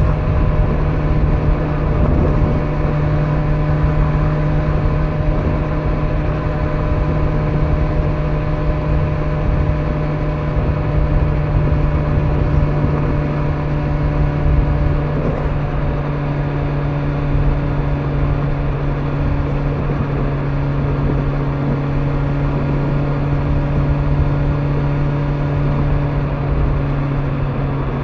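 Kawasaki Z900's inline-four engine running at a steady cruise through its stock exhaust, heard from the rider's back, with wind and road rumble underneath. The engine note drops slightly a little past halfway and then holds steady.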